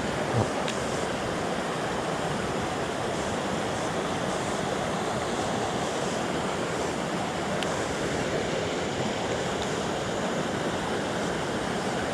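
Mountain stream water rushing steadily over rocks, with one short knock about half a second in.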